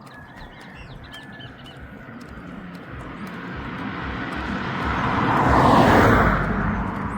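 A motor vehicle passing by, getting steadily louder, loudest near the end, then starting to fade. Birds chirp faintly near the start.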